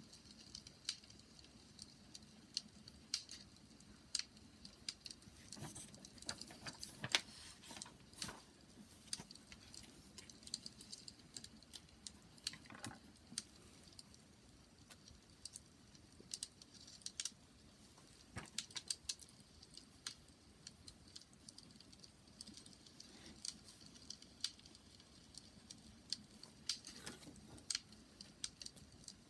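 Bonfire crackling: irregular snaps and pops of burning wood over a soft low rush, with the sharpest pop about seven seconds in.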